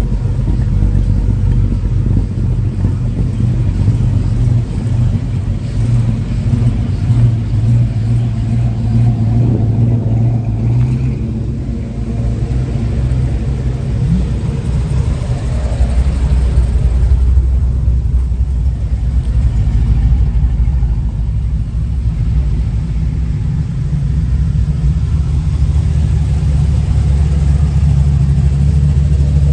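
A motor vehicle engine running loudly and steadily, its pitch settling lower about halfway through.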